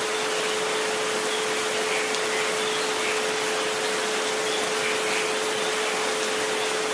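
A steady pure tone near 432 Hz, with a fainter tone near 528 Hz just above it, held unchanging over an even hiss of recorded rain.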